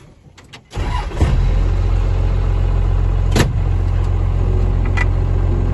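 Cummins diesel engine in a 1977 Ford crew-cab pickup starting up about a second in, then running at a steady low idle, with a couple of short sharp clicks over it.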